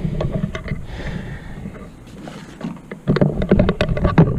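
Irregular clicks, knocks and rattles of hands handling hoses and parts on a generator's carburetor, over a low rumble. The clatter gets louder and busier about three seconds in.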